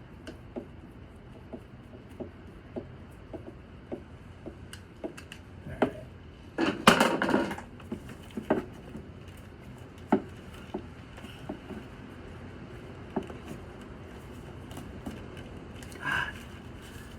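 Scattered light clicks and clinks of hand tools and small metal parts being handled while a snowmobile fuel pump is taken off, with a louder clatter about seven seconds in and a shorter one near the end.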